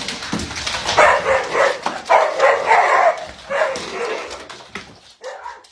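A dog barking, several barks in a row about half a second to a second apart, fading out near the end.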